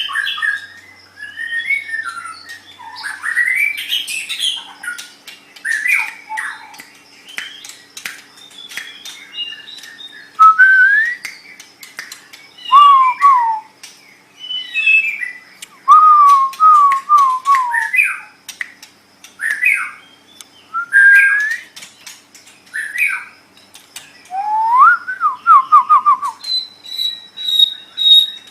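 White-rumped shama (murai batu) singing a varied, loud song of clear whistled phrases, rising and falling slurs and quick trills, mixed with sharp clicks and harsh notes, ending on a held high whistle.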